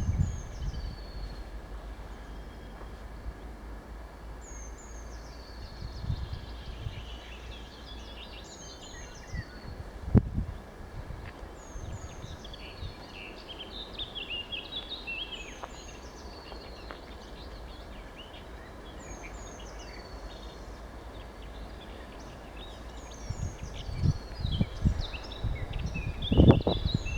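Songbirds singing: repeated short chirps and downward-sliding whistles, over a low rumble of wind on the microphone that gusts about ten seconds in and again near the end.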